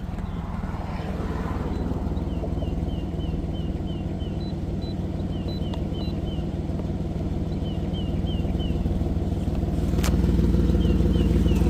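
2007 Dodge Charger's V6 engine idling steadily on freshly fitted spark plugs and ignition coil packs, with small birds chirping in short runs. A click comes about ten seconds in, after which the sound is a little louder.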